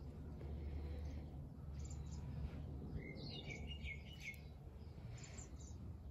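Small birds chirping outdoors, with a short cluster of chirps about three to four seconds in, over a low steady rumble.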